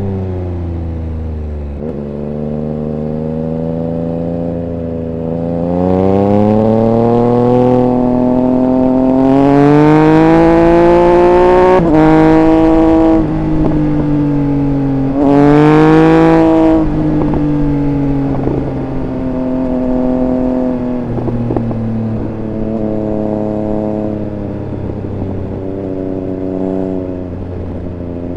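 Triumph Speed Triple 1200 RR's inline three-cylinder engine under acceleration and deceleration. Its pitch climbs through gear changes to its loudest in the middle, then falls back as it slows and picks up again near the end.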